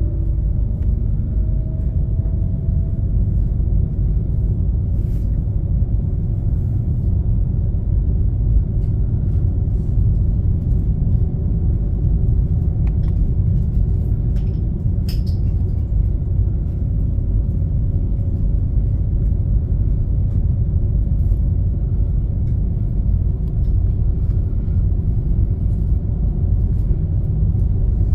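Engines of the high-speed passenger boat Super Jet "Zuiko" running steadily as it gets under way out of port: a steady low rumble, with a faint whine rising slightly in pitch over the first few seconds and a few light ticks.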